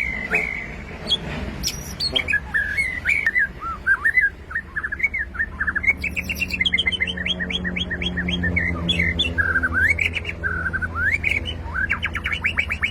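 White-rumped shama singing a varied run of clear whistled phrases, with a fast series of short rising notes in the middle and a rapid trill-like run near the end.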